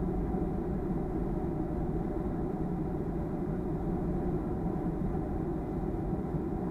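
Steady cabin rumble of a Boeing 737-300 heard from inside the passenger cabin: its CFM56 engines running with a low drone and a few faint steady tones.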